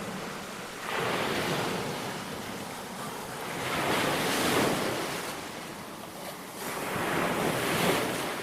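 Sea waves breaking on a beach: three rushes of surf, each swelling and fading, about a second in, in the middle and near the end.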